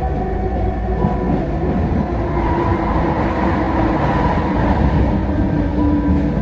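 Vancouver SkyTrain car running along the guideway: a steady rumble of wheels on rail with several steady whining tones from its drive that switch on and off.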